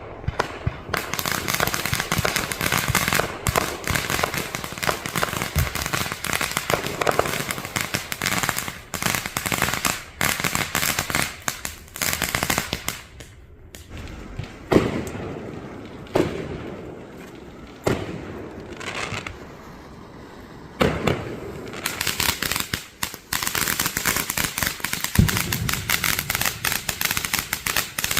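Consumer fireworks going off: a long stretch of rapid crackling and popping, then a lull of several separate bangs, each with a trailing tail, before rapid crackling starts up again near the end.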